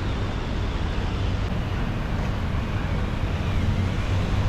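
Wind rumbling steadily on the microphone over a low hum of city street noise.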